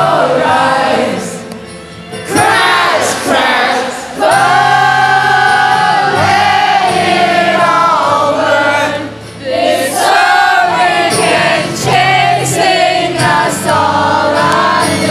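Live rock band music with long held, choir-like sung notes over the band; the loudness drops briefly twice.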